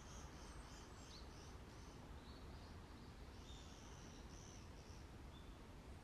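Faint, high, thin calls of small wild birds, short notes repeated several times in quick succession, in one run at the start and another past the middle, over a low steady background rumble.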